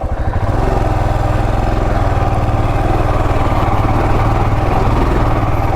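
Motorcycle engine under load climbing a rough grassy dirt slope, its level rising over the first half second and then running steadily.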